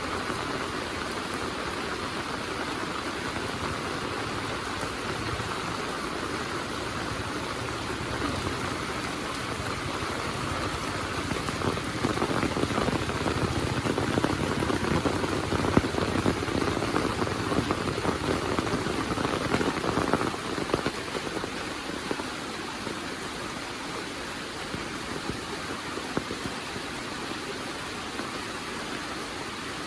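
Heavy rain falling steadily, with dense drop impacts. It grows louder from about twelve seconds in for some nine seconds, then eases back to a steady level.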